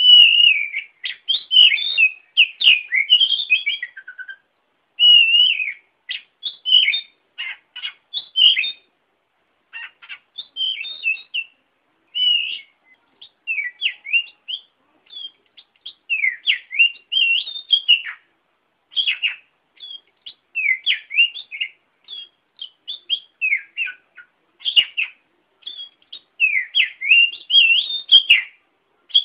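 Oriental magpie-robin (kacer) singing: quick, varied whistled notes and chirps, sliding up and down, delivered in short phrases broken by brief pauses.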